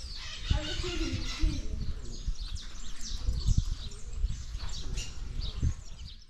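Several birds chirping and calling in quick, overlapping short notes, with a lower curved call about half a second in, over an irregular low rumble.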